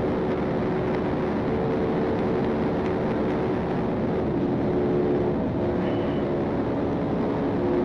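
Police patrol car driving at high speed in pursuit: a steady, even rush of road, wind and engine noise, with a few faint steady tones held under it.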